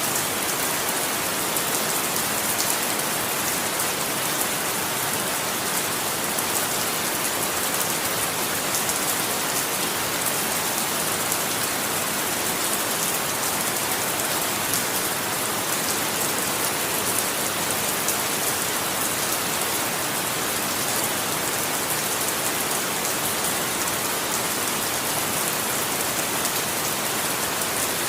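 Steady rain falling, an even hiss with fine patter of drops on a surface, no thunder.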